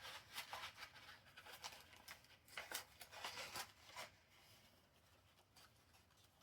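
Faint rustling of paper with light clicks and taps, as journal pages are handled, dying away to near silence after about four seconds.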